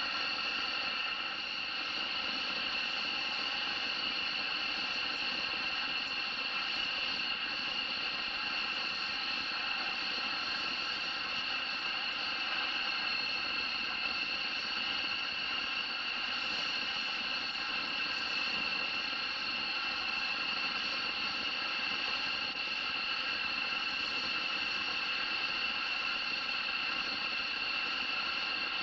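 Steady high-pitched whine of a jet's turbine engine, several tones held level without rising or falling.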